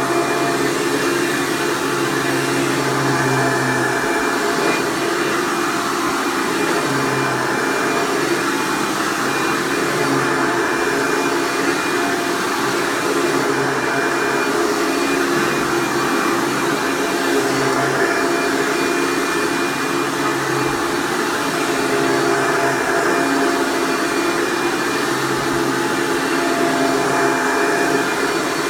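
Hoover Breathe Easy U5270-930 upright vacuum with a 7.3 amp direct-air motor, running steadily and pretty noisy while vacuuming carpet.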